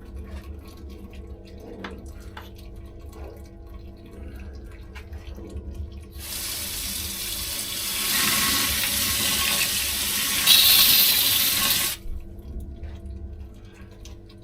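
Cold water tap running hard for about six seconds, starting about halfway through and shutting off abruptly, drawn to bring down a mash temperature that is running a bit high. A steady low hum runs underneath.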